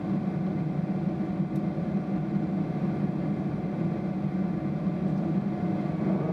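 Steady cabin drone inside a Boeing 777-300ER airliner, from its GE90 jet engines and the air rushing past the fuselage, a low hum with faint steady tones above it. A few higher hums join in near the end.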